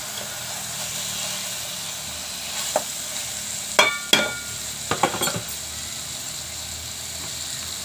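Seer fish pieces and onion masala frying in a pot with a steady sizzle. A metal spoon knocks against the pot a few times in the middle, one or two knocks ringing briefly.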